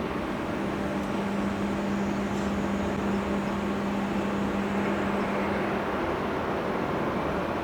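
Jet airliner engines making a steady rumble, with a steady low hum that fades in shortly after the start and stops about six seconds in.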